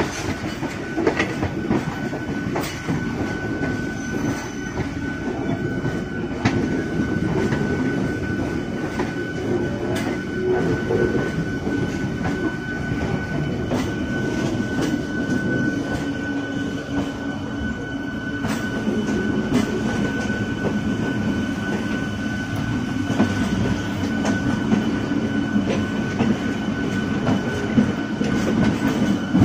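Indian Railways express train running at speed: a steady rumble of wheels and coaches on the track, with a thin steady high whine and occasional sharp clicks over the rail joints.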